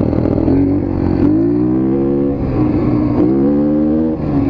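Dirt bike engine running and revving up twice, once about a second in and again around three seconds in, each rise in pitch falling back.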